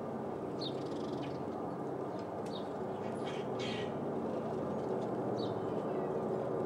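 Diesel locomotive engines running with a steady low drone, while a bird gives short high calls about half a dozen times.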